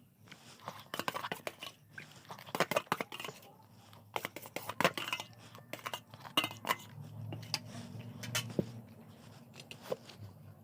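Close-miked eating: chewing with crisp crunching and irregular sharp clicks.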